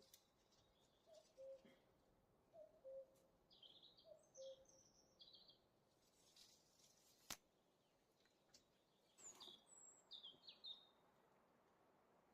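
Faint birdsong: short high chirps and trills, with a low two-note call repeated three times in the first five seconds. A single sharp click about seven seconds in.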